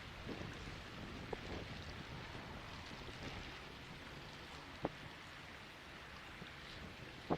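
Faint steady rush of water and wind, with short sharp knocks about a second and a half in, near five seconds, and at the end.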